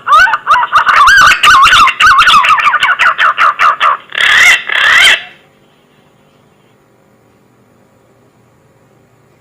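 Pink-necked green pigeon (punai gading) calling: a run of warbling, wavering whistles broken by clicky notes, ending with two louder, rougher notes about four to five seconds in.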